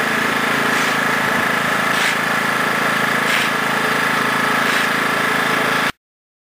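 A steady mechanical hum with a constant high tone, which cuts off suddenly about six seconds in.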